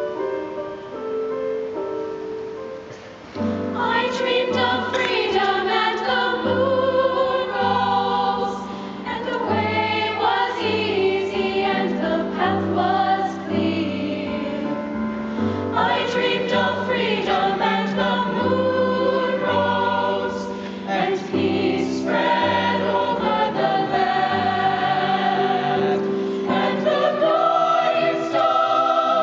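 Youth choir singing with piano accompaniment. It opens softly, then the full choir comes in loudly about three and a half seconds in.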